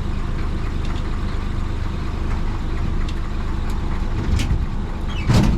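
Isuzu BXD30 bonnet bus's DA640 diesel engine running steadily with a low, closely pulsing rumble. About five seconds in there is a single short, loud knock.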